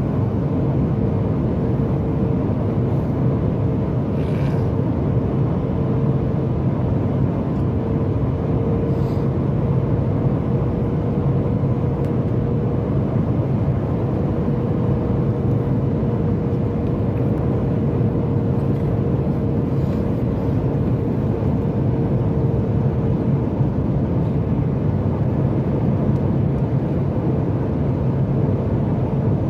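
Steady in-flight cabin noise of a Boeing 737 MAX 8: an even rush of engine and airflow noise with a steady hum under it.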